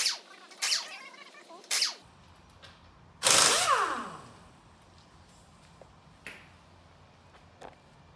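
Workshop tools and metal suspension parts being handled: a few sharp clicks, then a loud brief clatter about three seconds in whose pitch slides downward, followed by light ticks.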